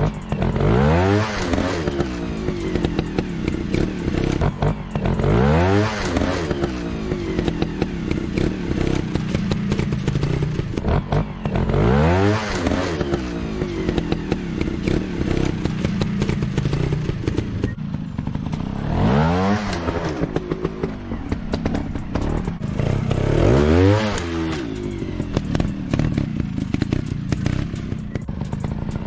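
Dirt bike engine running and revving up over and over, its pitch rising in a sweep every five or six seconds, with clattering and knocks between.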